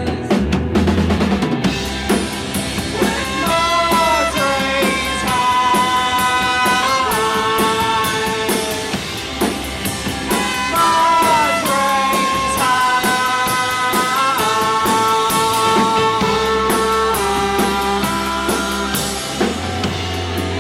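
Live rock band playing an instrumental passage: a drum kit keeps a steady beat under a sustained lead melody that slides up and down in pitch.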